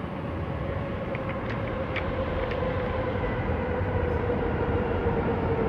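Vehicle in motion: a steady rumble with a humming tone that drifts slightly lower as the level slowly rises, with a few faint ticks in the first couple of seconds.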